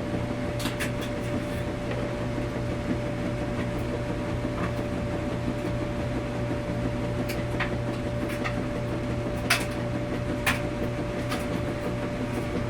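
Washing machine running in a laundromat: a steady mechanical hum with a constant whine, and scattered light clicks and knocks from the drum, a couple of them sharper near the end.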